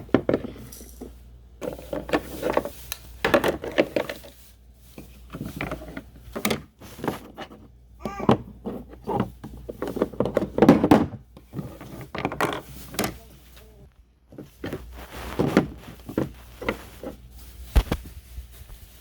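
Irregular knocks, clicks and clatter from handling toy kitchen pieces and utensils, with a voice now and then.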